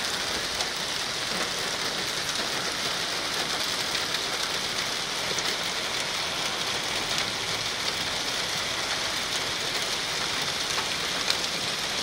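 Steady heavy rain falling and splashing on hard surfaces, with scattered sharp drop ticks.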